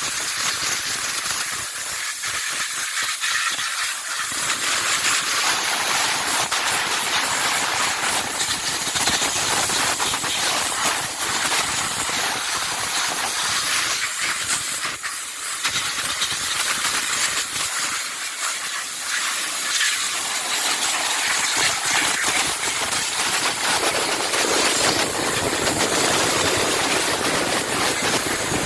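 High-pressure water jet hissing continuously as it sprays the engine bay, rinsing off the cleaning fluid. The hiss gets fuller and deeper at times, as the spray hits different parts.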